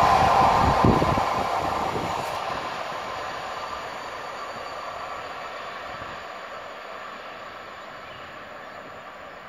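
Departing passenger train's coaches rolling away on the track, with a few wheel thumps over rail joints about a second in. The rolling noise then fades steadily as the train recedes.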